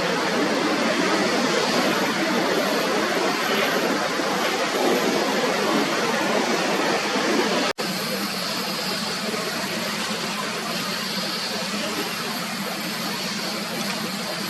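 Jet airliner engine noise, a steady loud rush. It breaks off abruptly about halfway through and resumes slightly quieter, now with a faint high whine.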